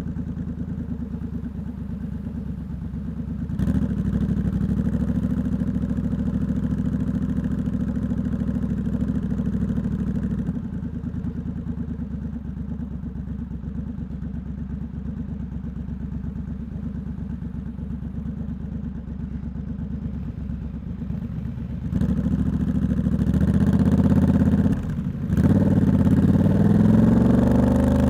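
Triumph Scrambler 1200X's parallel-twin engine through a loud Hitchcox aftermarket exhaust, running at low revs with the throttle opening and closing. Near the end it drops out briefly at a gear change, then the pitch rises as the bike accelerates.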